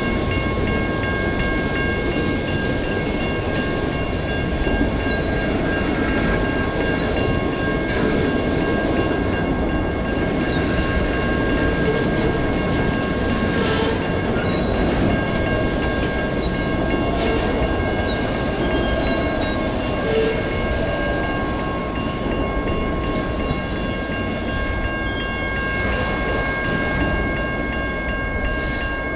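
Loaded freight gondola cars rolling past at close range: a steady rumble of steel wheels on rail, with a few clanks along the way. A steady high-pitched whine sits over it.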